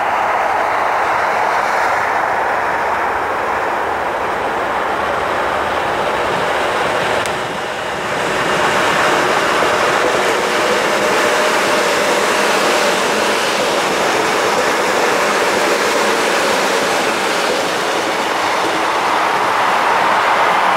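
Electric commuter trains of the Gyeongui–Jungang Line running past on the tracks, with a steady noise of wheels on rail. The sound dips briefly about seven seconds in, then rises again.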